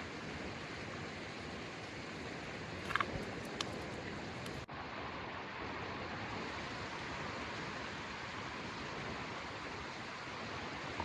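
Steady rushing outdoor ambience of water or wind, with a few brief clicks about three seconds in.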